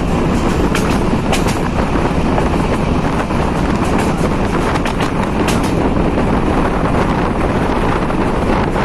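A diesel-hauled passenger train running along the track: a loud, steady rumble with wind buffeting the microphone and a few sharp clicks.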